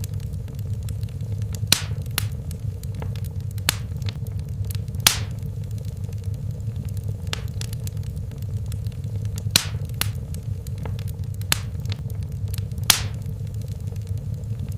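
Fire burning in a fireplace: a steady low rumble of flames with irregular sharp crackles and pops, a second or more apart.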